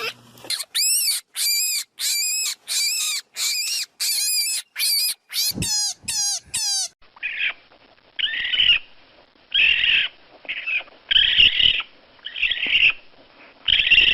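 Animal calls in two parts. First comes a run of about ten high, evenly repeated notes, the last few sliding downward. Then, about seven seconds in, a different recording follows with a series of harsher, raspier calls.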